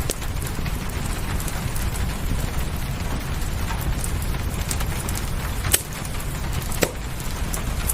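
Fireplace crackling over steady rain: a constant low rumble and hiss with scattered sharp pops of burning wood, the loudest two a little before six and seven seconds in.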